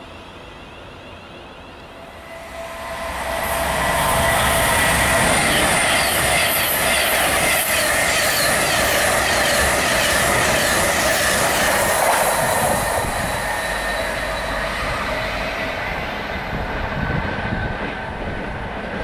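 Virgin Class 390 Pendolino electric train passing close by. The sound swells over about two seconds, holds loud with a steady whine and a fast clatter of wheels, then slowly fades.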